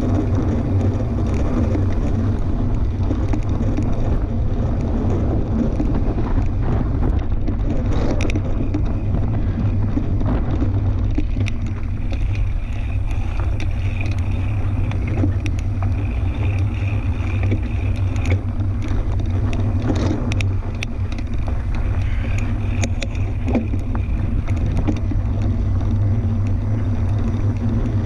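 Fat-tire tandem mountain bike riding a dirt trail: a steady low rumble of wind on the microphone and tyres rolling, with scattered clicks and rattles from the bike over rough ground.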